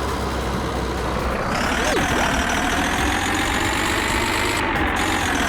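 Car carrier truck's engine running steadily with a low rumble; the sound changes abruptly about a second and a half in, as if the clip cuts to another shot.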